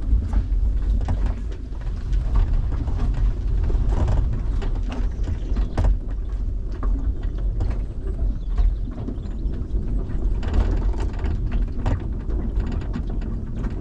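Light-aircraft propeller being pulled through by hand to check the engine's compression: irregular mechanical clicks and knocks over a low rumble of wind on the microphone.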